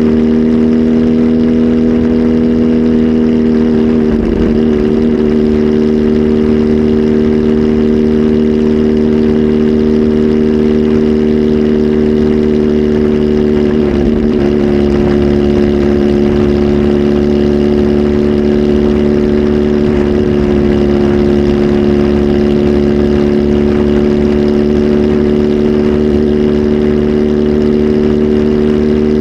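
Kawasaki Z H2 SE's supercharged inline-four, flash tuned and breathing through a full exhaust system, running loud at a steady engine speed with its pitch held nearly constant, wavering briefly about four seconds in and again around the middle.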